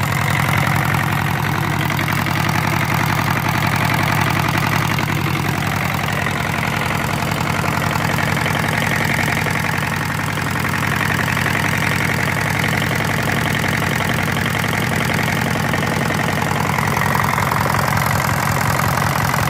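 Hatz diesel engine running steadily at an even idle-like speed, with a dense, regular firing beat.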